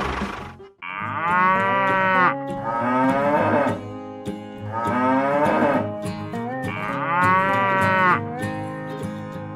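Cattle mooing: four long, drawn-out moos, one after another, over steady background music. An engine running cuts off just before the first moo.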